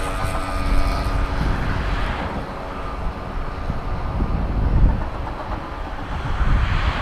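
Airliner engines passing at an airport runway: a tonal whine fades out in the first second or so, leaving a steady low rumble and rush of engine noise.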